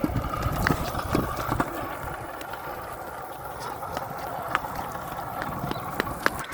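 GoTrax scooter rolling over wet pavement: a steady hiss of tyres on the wet surface, with sharp clacks and knocks from the deck and wheels over bumps, several of them scattered through.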